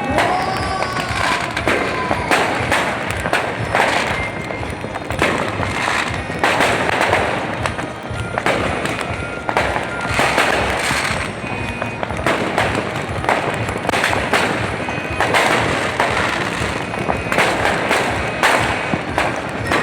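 New Year fireworks going off: rapid, overlapping bangs and crackles that never let up, with music playing underneath.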